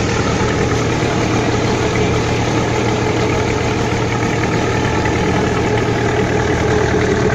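Diesel-type engine of a small motorized crossing boat running steadily at an even, low speed.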